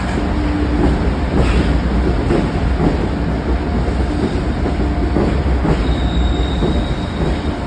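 A train running on rails: a steady low rumble with irregular wheel clicks over the rail joints. A faint, thin, high squeal comes in about six seconds in.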